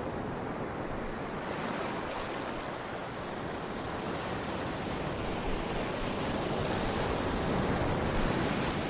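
Sea waves washing on a beach, a continuous surf rush that swells about a second and a half in and again near the end.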